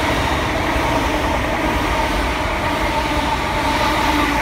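Great Western Railway passenger train passing close by: a steady rumble of wheels on rail with a constant hum.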